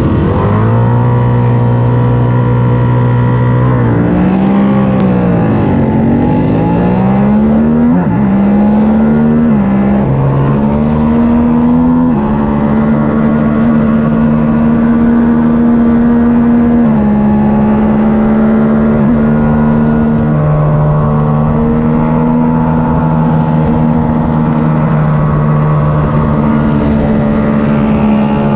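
Onboard sound of a twin-cylinder race motorcycle engine, held at steady high revs for about four seconds, then dropping and climbing in pitch several times as it pulls away through the gears. From about twelve seconds on it runs at steady high revs, with a shift at around seventeen seconds.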